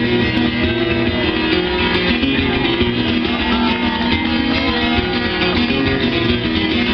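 Guitar music, a plucked-string instrument playing steadily.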